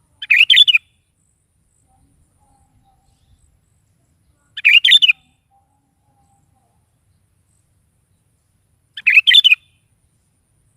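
Sooty-headed bulbul (kutilang) singing: three short phrases, alike, each about half a second long and about four and a half seconds apart.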